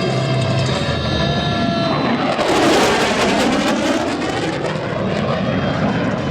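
Lockheed Martin F-22 Raptor's twin Pratt & Whitney F119 turbofans on a high-speed flyby: jet noise swells suddenly about two seconds in, peaks with a sweeping hiss as the jet passes, then eases into a fading rumble.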